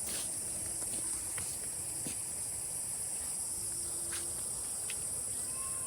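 Steady high-pitched drone of an insect chorus, with a few faint ticks.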